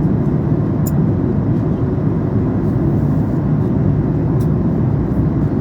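Steady cabin noise of a Boeing 737 MAX 8 in cruise: an even, low rumble of its CFM LEAP-1B engines and airflow. Two faint clicks come about a second in and again about four and a half seconds in.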